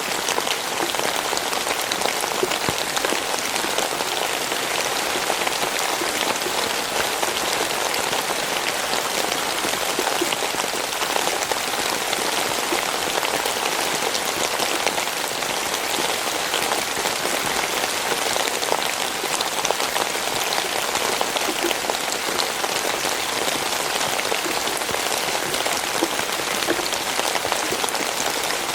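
Steady rainfall: a dense, even patter of raindrops on a surface, unchanging throughout.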